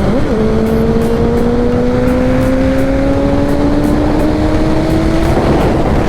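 Motorcycle engine under way: its pitch dips briefly just after the start, then rises slowly and steadily as the bike pulls through a gear, and changes near the end, with wind rushing over the microphone.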